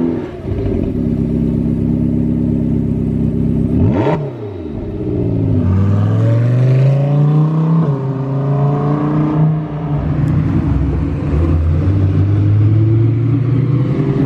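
High-performance car engines running loud. After a dip around four seconds, one engine accelerates with a long rising pitch, drops near eight seconds as it shifts up, and climbs again.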